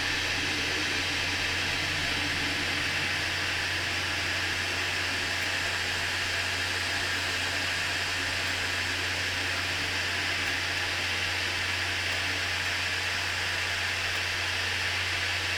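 JISULIFE Table Fan Pro3 running: a steady rush of air with an even low hum underneath.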